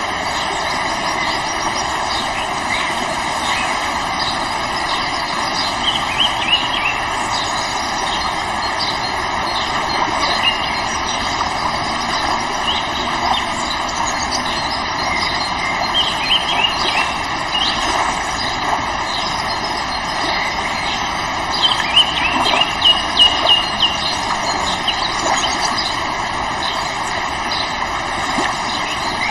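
River water flowing steadily, with a few short bird chirps over it, most clustered about three quarters of the way through.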